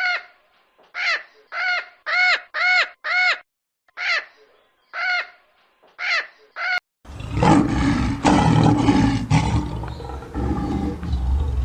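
An animal gives about ten short, high-pitched calls, each rising and falling in pitch. About seven seconds in, this gives way abruptly to a different animal's loud, rough, low roar.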